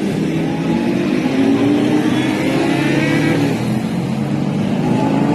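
Sports car engines running and revving, their pitch rising and falling, with more than one engine heard at once.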